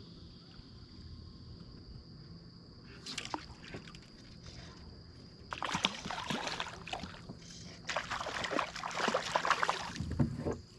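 Water splashing and sloshing close by, in three irregular stretches starting about three seconds in, over a faint steady high whine.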